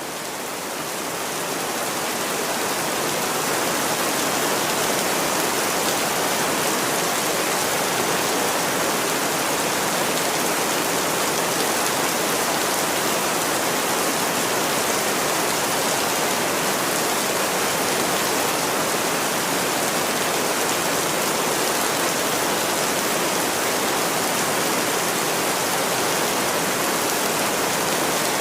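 Steady, dense rainfall hiss, fading up over the first few seconds and then holding even.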